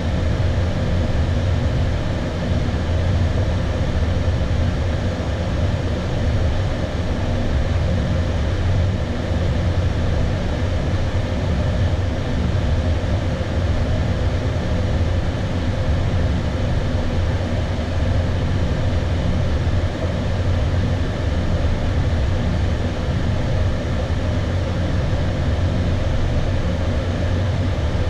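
Steady flight-deck noise of an Airbus A320 on final approach: airflow over the nose and the engines' hum, even and unbroken, heaviest in the low end.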